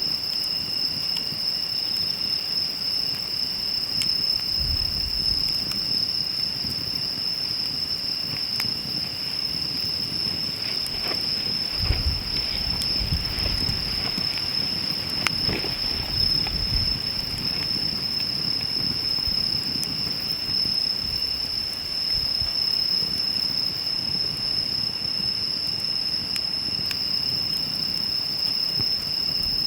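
Insects chirring in a steady high-pitched drone, with a wood fire crackling underneath: scattered sharp pops and low rushing swells of flame.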